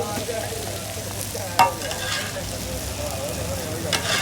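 Chicken chaap frying in oil, sizzling steadily, with a sharp knock about one and a half seconds in and another near the end.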